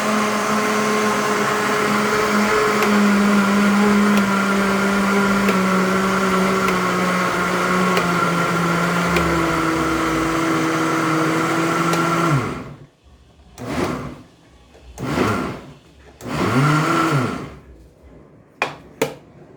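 Walita Delta Selector blender motor running at a steady whine, winding down as it is switched off about twelve seconds in. It is then run in three short bursts, each spinning up and dying away, followed by two sharp clicks near the end.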